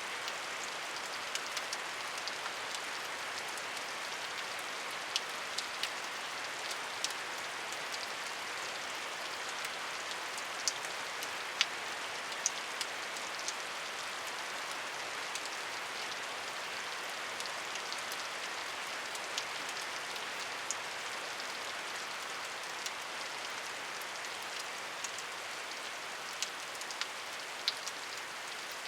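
Steady rain falling, an even hiss with scattered sharp drip ticks of individual drops hitting a surface.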